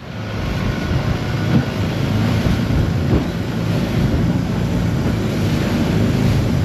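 Long-tail boat engine running steadily at speed, a low droning hum.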